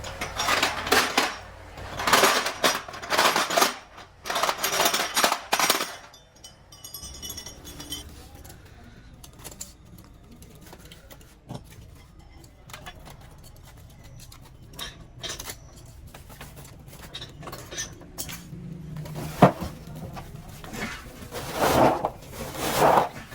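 Metal scraping and clinking: a run of rough metal-on-metal strokes, then scattered light clinks and taps, then more scraping strokes near the end.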